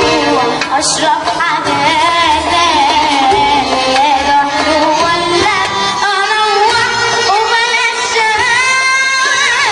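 A young girl singing in an Arabic, Middle Eastern style, her voice bending and wavering through ornamented runs over musical accompaniment.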